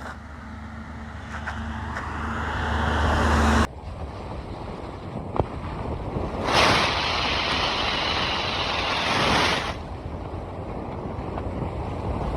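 An old truck being driven: a steady low engine hum with road and wind noise, broken into separate stretches by abrupt changes, the loudest a rush of wind noise in the middle.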